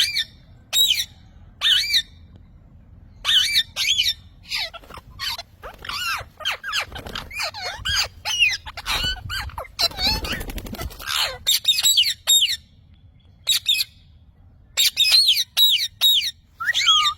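Parrot calling: a long series of short, sharp squawks and chirps that bend in pitch, coming in clusters with brief gaps and busiest in the middle stretch.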